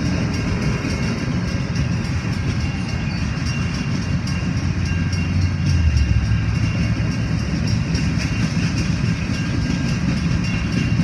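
Freight train of covered hopper cars rolling through a grade crossing: a steady rumble of wheels on rail. Over it, a mechanical crossing bell strikes rapidly and evenly; the uploader says this bell is about to fail.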